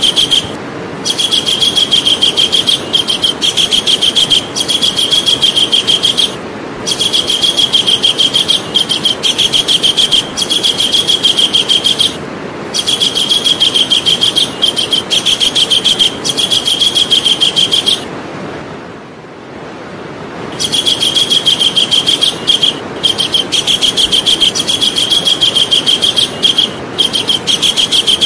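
Javan kingfisher giving its loud, rapid chattering call in runs of several seconds each, broken by short pauses and one longer pause about two-thirds of the way through.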